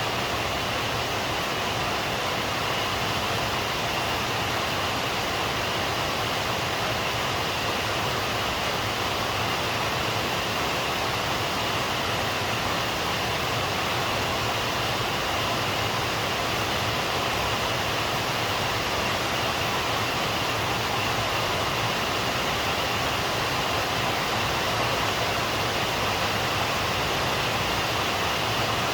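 Steady rain falling, an even unbroken hiss with no thunder or single drops standing out.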